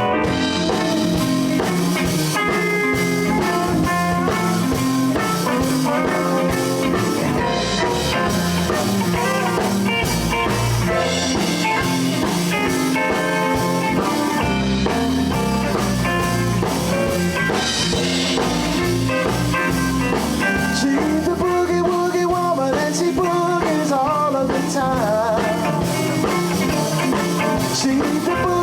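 Live blues band playing a steady number: drum kit, bass, guitars and violin together, with bending lead notes in the second half.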